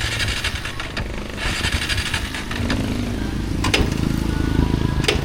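Motor vehicle engine running with a low rumble that grows louder from about halfway in, with two sharp knocks near the end.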